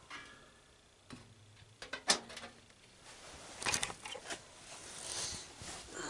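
Plastic box fan blade being handled and fitted onto the motor shaft: scattered clicks and knocks, the sharpest about two seconds in, then a rustling scrape near the end.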